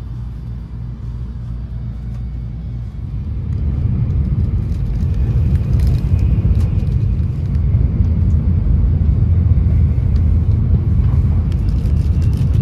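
Running noise of a Shinkansen bullet train heard from inside the passenger car: a steady low rumble, which gets louder about three and a half seconds in.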